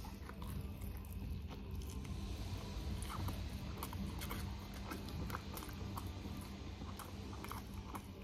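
Close-miked chewing of a mouthful of food, with scattered small crunches and wet mouth clicks, over a steady low hum.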